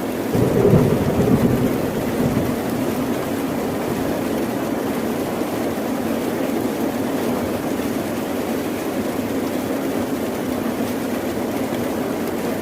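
Steady rain with a rumble of thunder about half a second in that rolls on for about two seconds and fades into the rain.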